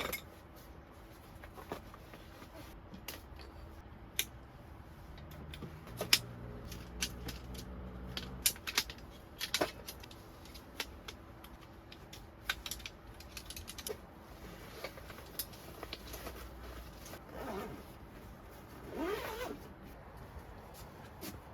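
Camping gear being handled by hand: scattered light clicks and knocks of small objects set down and moved, with two longer wavering scrapes near the end.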